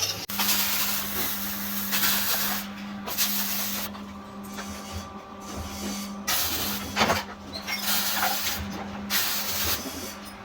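Workshop tools at work on a motorcycle exhaust header: repeated bursts of hissing noise a second or two long, over a steady machine hum that cuts out briefly a few times.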